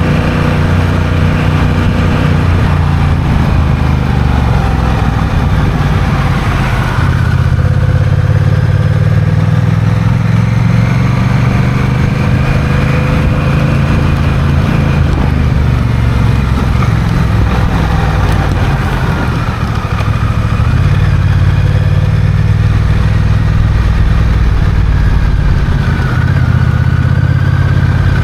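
Honda Rebel 1100's parallel-twin engine running under way, its note shifting up and down with the throttle, with a brief drop in level about twenty seconds in.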